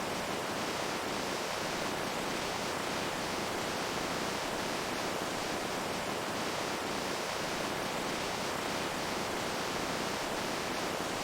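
Flowing water rushing steadily, an even hiss that neither rises nor falls.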